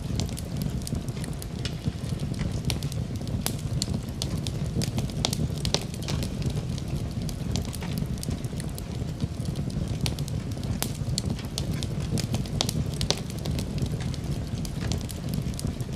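Fire burning in a fireplace: a steady low rumble of flames with frequent sharp crackles and pops scattered irregularly throughout.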